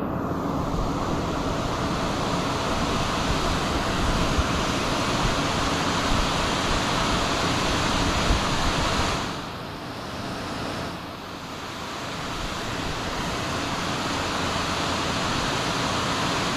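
Steady rush of fast-flowing stream water below a dam, dipping briefly in level a little past halfway.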